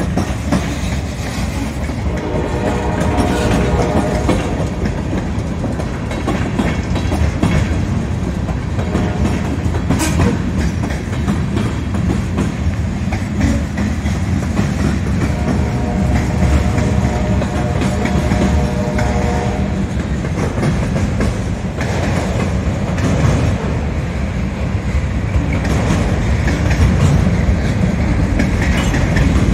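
CSX freight train's cars rolling past at speed, a continuous rumble with the clickety-clack of wheels over the rail joints. A sustained pitched tone rises above it twice, briefly about two seconds in and for about four seconds around the middle.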